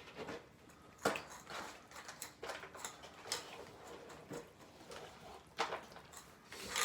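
Scattered clinks, taps and scrapes of a utensil against dishes as cat food is portioned out, with a sharper knock about a second in.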